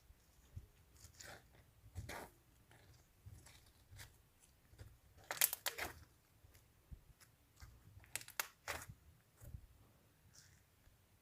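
Homemade slime being handled by hand, making irregular crackling and popping sounds, loudest just over five seconds in and again around eight seconds in.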